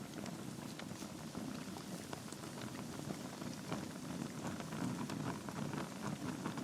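Wood logs burning in a fireplace: a steady low rush of flame with frequent small crackles and pops.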